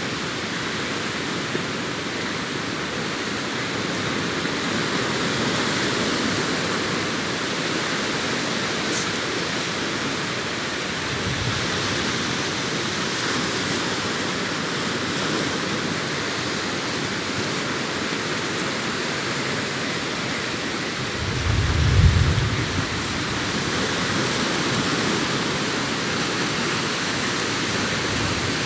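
Sea surf washing onto a beach: a steady rushing hiss of waves, with a brief low rumble about two-thirds of the way through.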